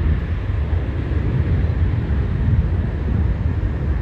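Southwest Airlines Boeing 737's jet engines at takeoff power, heard as a steady low rumble.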